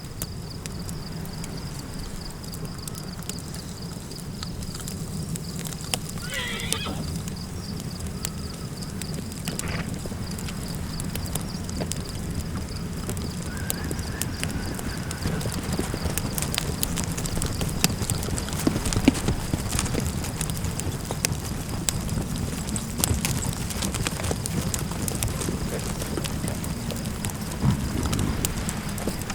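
Campfire crackling over a steady low wind rumble, the crackles growing busier in the second half. About six seconds in, a single short wavering animal call rises and falls.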